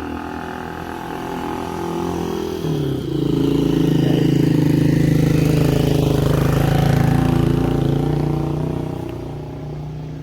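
Motorcycle tricycle (trike) engine passing by. It grows louder, its note drops about three seconds in, it is loudest through the middle, and it fades away near the end.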